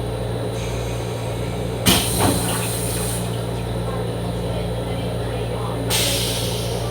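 Steady hum inside an M7 railcar's restroom, with a sharp click about two seconds in followed by a second-long hiss, and another hiss near the end.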